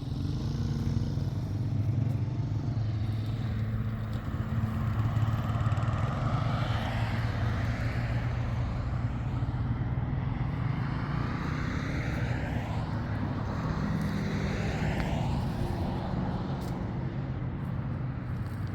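A motor vehicle's engine running steadily, with a higher whine that rises and falls several times.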